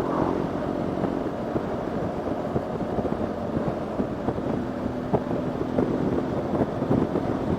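BMW GS boxer-twin motorcycle engine running steadily under way, mixed with wind rush, heard through a Sena helmet intercom microphone.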